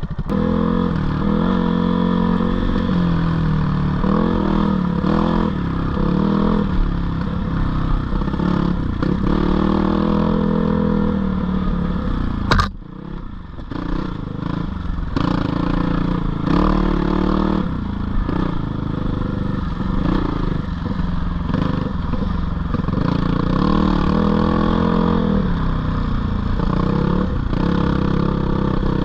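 GPX 450R four-stroke dirt bike engine being ridden off-road, its revs rising and falling with the throttle. About halfway through there is one sharp crack, and the engine drops briefly before picking up again.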